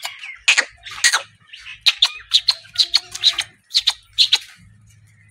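Birds calling in a run of short, sharp, high chirps, about three a second, that stops about four and a half seconds in.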